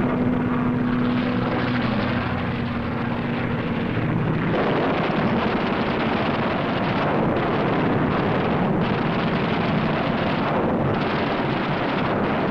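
Propeller-driven aircraft engines running loud and steady in a dense wash of noise, with one engine note that drops in pitch about two seconds in.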